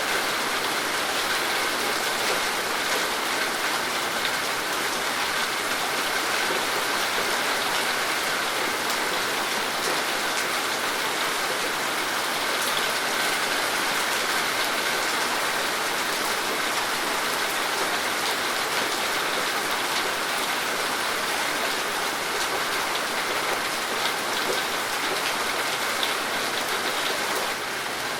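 Steady rain falling, an even hiss of drops with no let-up, easing slightly in level near the end.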